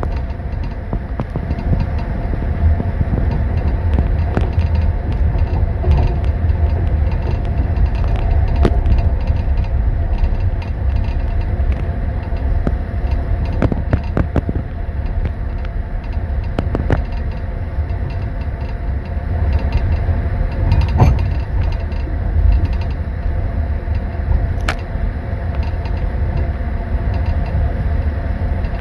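Passenger train running, heard from inside a sleeper compartment: a steady, loud low rumble of the carriage on the rails with a few steady tones over it. Scattered sharp clicks and knocks sound every few seconds.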